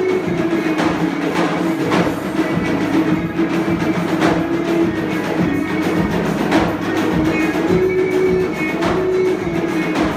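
Dhol drums beating a steady rhythm under a held, stepwise melody line, with music played live.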